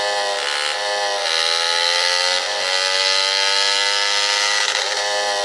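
Yamaha Lander 250's single-cylinder four-stroke engine running while the motorcycle is ridden, a steady buzz whose pitch climbs slowly over the first few seconds as it gathers speed, then holds.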